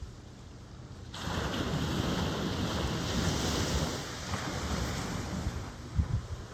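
Ocean wave breaking suddenly about a second in, then a loud wash of surf that swells and slowly eases off. Low thumps of wind buffeting the microphone come near the end.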